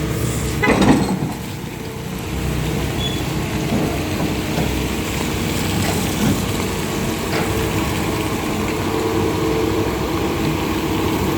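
A motor engine running steadily under a low rumble, with a brief louder noise about a second in.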